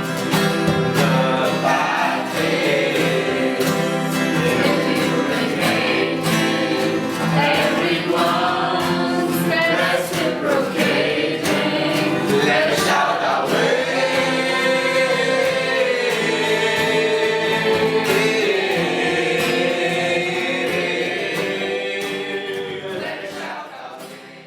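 Song with a group of voices singing over instrumental accompaniment, fading out near the end.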